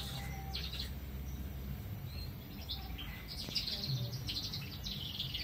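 Small birds chirping in short trilled bursts, several times, over a steady low background rumble.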